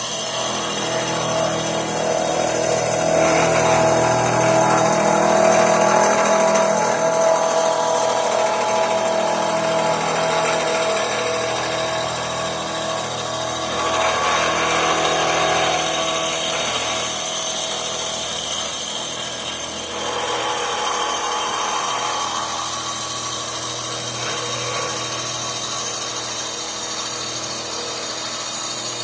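A power tool running and working metal, a steady whine under dense noise that swells and eases as the load changes.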